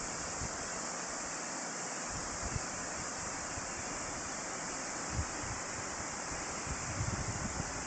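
Awamata Falls waterfall rushing with a steady, even hiss of falling water. Low gusts of wind buffet the microphone near the end.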